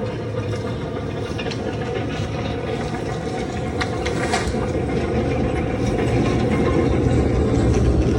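Steady low rumble of riding a bicycle, with wind noise on the microphone and tyre noise, growing gradually louder; a few sharp clicks about four seconds in.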